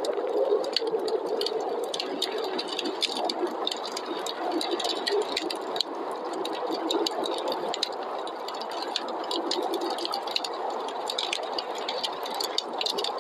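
Wood fire crackling with many small sharp pops, over the steady, slowly wavering whoosh of snowstorm wind.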